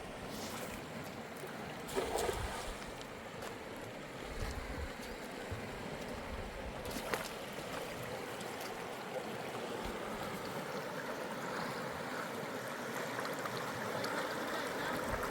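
A river flowing, a steady rushing of water, with a couple of short knocks, one about two seconds in and one about seven seconds in.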